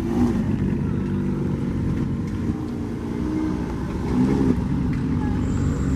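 Car engine running, its pitch rising and falling slightly a few times in light revs.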